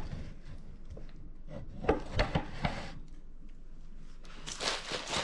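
Handling of a boxed aftermarket catback exhaust being unpacked: a few sharp knocks and taps of the parts against the cardboard box, then rustling of the packaging near the end.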